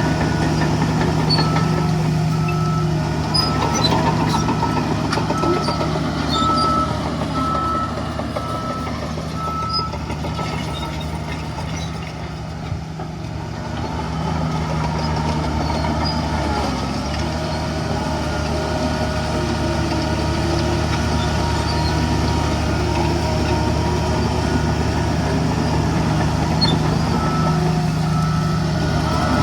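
Heavy diesel engine of earthmoving machinery running steadily, with a reversing alarm beeping about once a second near the start and again near the end. The engine dips briefly in the middle and then picks back up.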